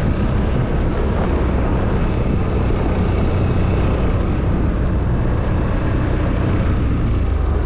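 ATV engine running steadily on the move, a constant low drone with road and terrain noise.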